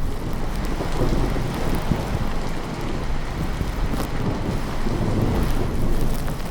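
Steady rain falling, with a low rolling rumble of thunder beneath it.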